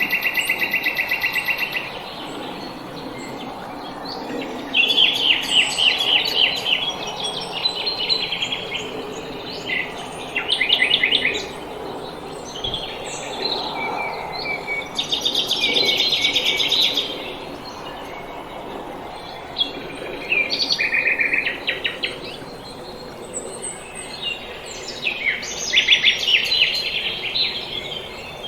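Small songbirds singing in spring: repeated fast trills and chirping phrases that come and go every few seconds, over a steady low background rush.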